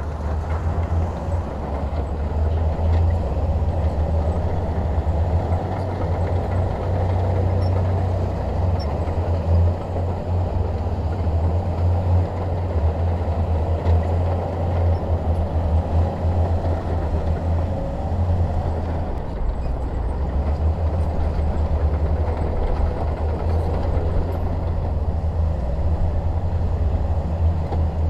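Shantui DH17 bulldozer's diesel engine running steadily, a deep drone with rumbling noise above it.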